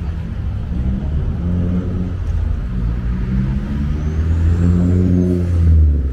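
Car engine running with a low hum whose pitch drifts up and down with speed, getting louder near the end.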